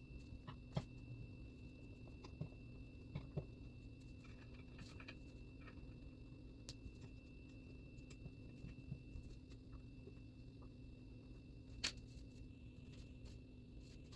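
Faint scattered clicks and light taps of wood screws being driven by hand with a Phillips screwdriver into a wooden stool frame, with the loudest click near the end, over a steady faint hum of room tone.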